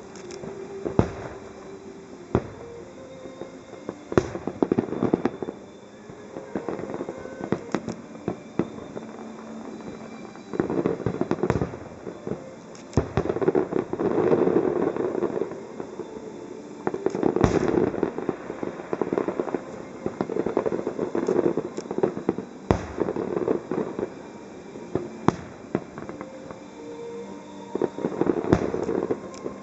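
Aerial fireworks shells bursting: sharp bangs scattered every second or few, with repeated stretches of dense crackling a second or two long.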